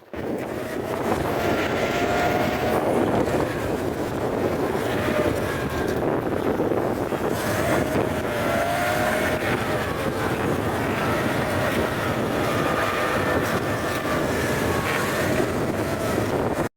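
Motorboat engine running steadily under way, with wind on the microphone.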